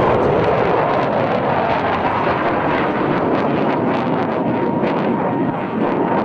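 F-16 fighter jet engines roaring in a loud, steady rush of jet noise as the jets fly their display, with a ragged crackle coming in about halfway through.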